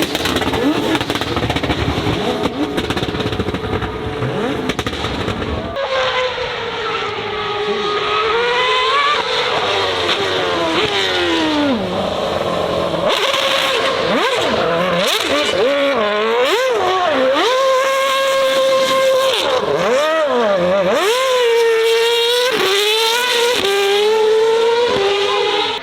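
High-performance car engine at full throttle. About six seconds in the sound changes abruptly to an engine revving hard, its pitch climbing and dropping again and again as the throttle is worked on and off.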